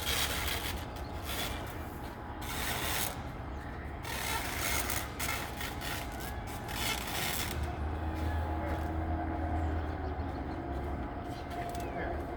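Plastic wrap being pulled off its roll in a series of rasping strokes, each about half a second to a second long. A low hum comes in for the second half.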